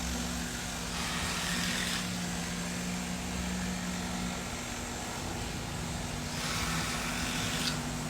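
A steady motor hum holding two low tones, with a rushing hiss that swells twice, about a second in and again near the end.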